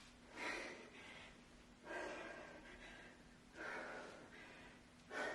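A woman breathing hard from exertion during kettlebell reps: four short, forceful breaths about a second and a half apart.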